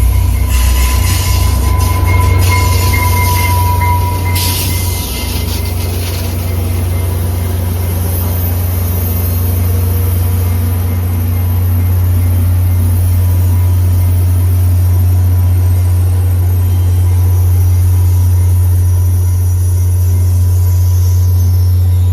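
A train going by with a heavy, steady rumble. For the first four seconds or so a thin squeal rides over it.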